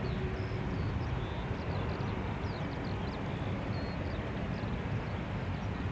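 A steady low rumble, with small birds chirping and trilling over it throughout.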